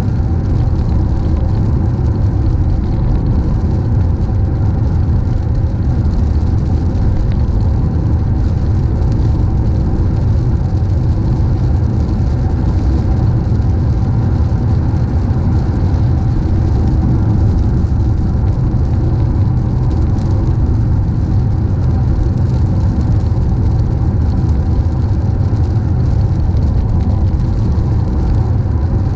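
Car driving: steady low rumble of road and engine noise, unchanging throughout.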